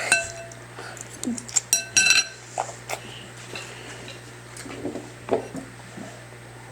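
A dinner bowl clinking and knocking on the table, with sharp knocks that ring briefly: one just after the start and a quick cluster about two seconds in. Softer, duller knocks and scrapes follow near the end.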